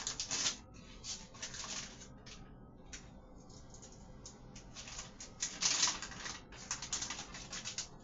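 Plastic packaging crinkling and rustling as it is handled, in several bursts of quick crackles with short pauses, loudest a little before the six-second mark.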